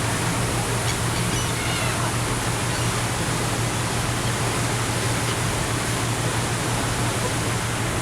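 Steady rush of wind and water with a constant low hum of a ferry's engine underneath, heard from on deck. A few faint short high calls sound about one and a half seconds in.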